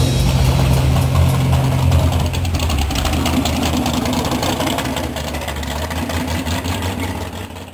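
Engine of an orange first-generation Chevrolet Camaro drag car idling as the car rolls slowly past and away. It grows gradually fainter and fades out at the very end.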